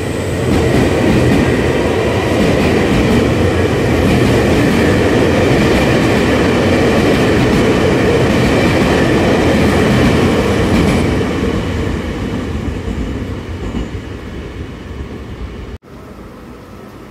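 Train running on the rails: a loud, steady rumble with a faint high ringing over it, which fades from about eleven seconds in. Near the end it breaks off sharply, leaving a quieter steady hum.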